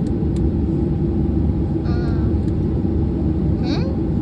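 Jet airliner's engines and airflow heard from inside the passenger cabin during takeoff: a steady, loud, low rumble.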